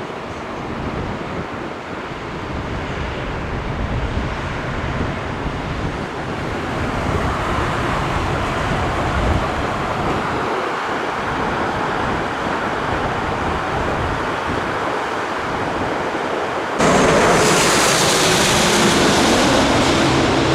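Jet airliner's engine roar, a broad rumbling noise with wind on the microphone, slowly growing louder. Near the end it cuts abruptly to a louder, brighter jet roar with a steady whine.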